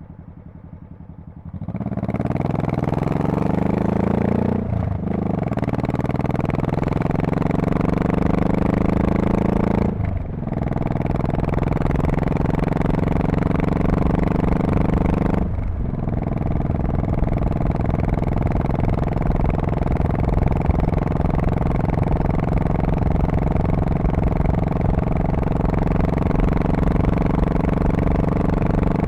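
2002 Honda Shadow Spirit VT1100C's V-twin exhaust, idling briefly, then pulling away hard about a second and a half in and accelerating up through the gears with three upshifts about five seconds apart, then settling into a steady cruise.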